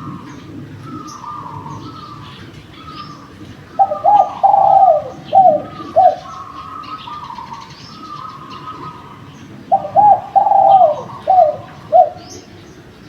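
Derkuku (island collared dove) cooing: two loud phrases of four or five short falling coos, about 4 and 10 seconds in, over a softer, steady run of cooing from another dove. Small birds chirp faintly in the background.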